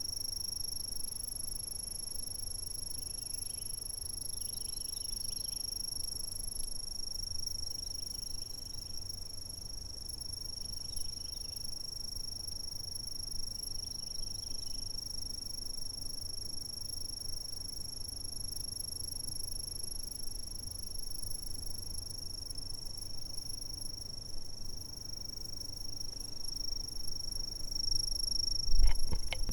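Insects chirping in a steady, unbroken high-pitched trill, with faint scattered chirps from other insects beneath it. Near the end a loud low thump sounds.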